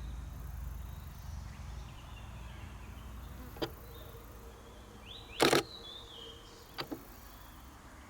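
Nikon D500 shutter firing close by: a single click, then a short rapid burst, the loudest sound, then two quick clicks, over a low steady outdoor rumble.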